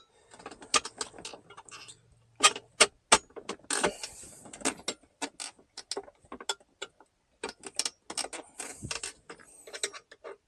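Irregular clicks and knocks of a plastic center console lid and its metal hinge rod being handled and worked into place.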